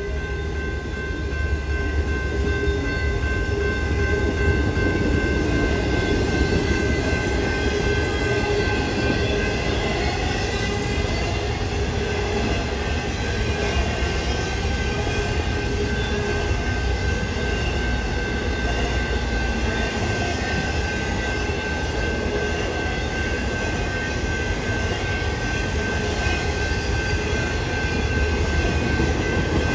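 BNSF intermodal freight train passing close by: a steady rumble of wheels on the rails, with a thin steady whine held through it.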